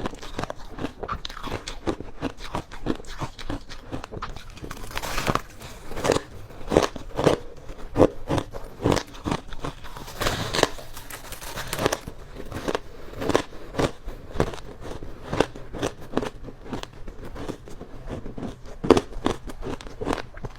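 Crunchy ice being bitten and chewed close to the microphone: rapid sharp crunches, several a second, with a few louder bites and a longer grinding crunch about halfway through.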